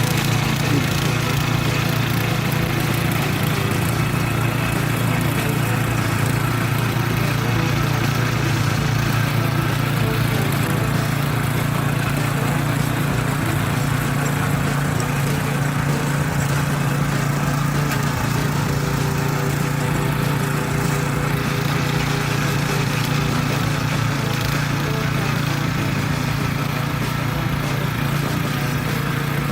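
Single-cylinder 170-type four-stroke petrol engine on a mini tiller, running steadily under load while harrowing soil. It runs not quite evenly, which the operator puts down to it being a little low on petrol.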